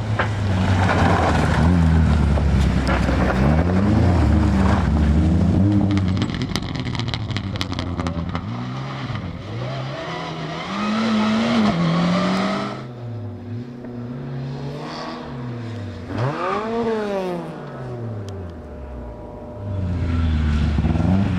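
Rally car engine revving hard, its pitch climbing and dropping again and again through gear changes and lifts. It is loudest in the first six seconds and comes up loud again near the end.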